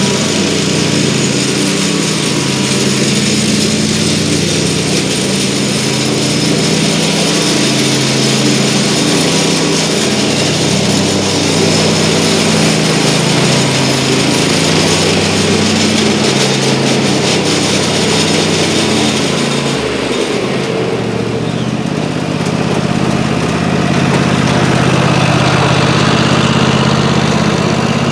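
Lawn mower engine running steadily while mowing, just repaired and cutting well but still noisy. About two-thirds of the way through, the high hiss drops away and the engine's low hum comes forward.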